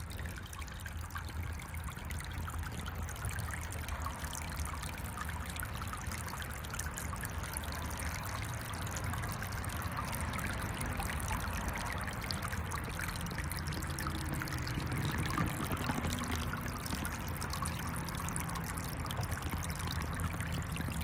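Small electric fountain in a bird bath running: water trickling and splashing steadily back into the basin, over a low steady hum.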